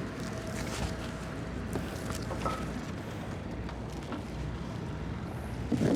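Twin 200 hp Suzuki outboard motors on a towboat running steadily, with wind on the microphone.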